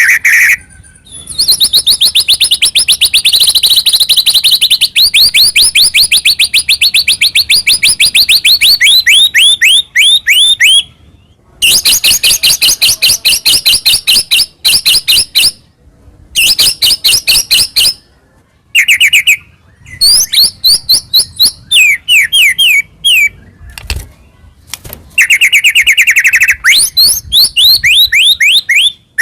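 A white-rumped shama (murai batu) singing loudly and vigorously. Its song comes in long runs of rapid repeated whistled notes, broken by brief pauses.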